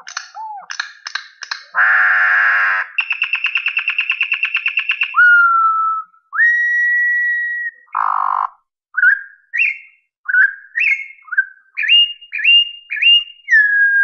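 Campo troupial (corrupião) singing: harsh chattering notes, then a fast trill, long clear whistles, and in the second half a run of short rising whistled notes.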